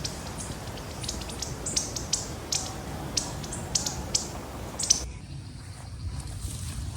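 Short, high chirps repeating irregularly, a few per second, like small birds calling in forest, over a low rumble; the sound changes abruptly about five seconds in and is quieter after.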